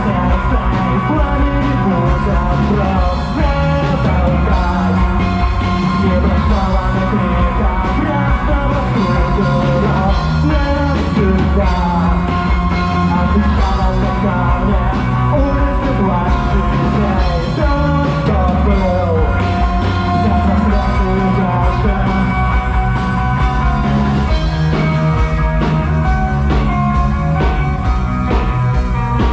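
Rock band playing live: a loud, continuous full-band passage with heavy bass and drums.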